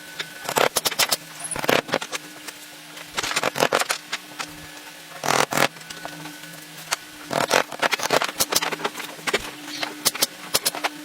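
Wood being worked by hand: irregular scraping strokes and clicks, each lasting up to about a second, over a steady low hum.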